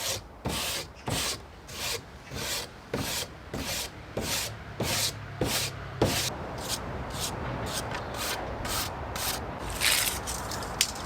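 Hand-scrubbing strokes on a reclaimed wooden decking board, about two a second, as the board is cleaned off.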